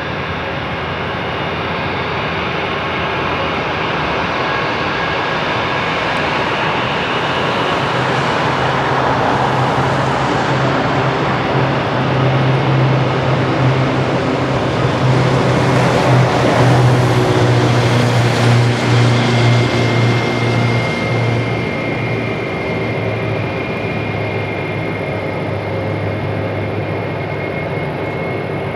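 Jet engines of an Airbus A321-100 airliner at power. The noise swells to its loudest about two thirds of the way through and then eases, leaving a steady high whine over a low hum near the end.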